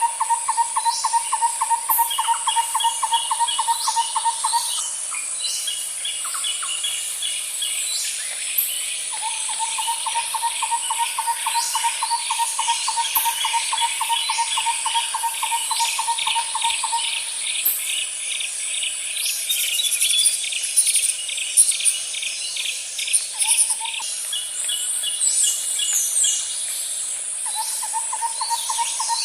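Outdoor birds chirping and calling over a steady, high insect hum. Underneath them runs a long, even, rapidly pulsing low trill in three stretches: at the start, then about nine to seventeen seconds in, and again near the end.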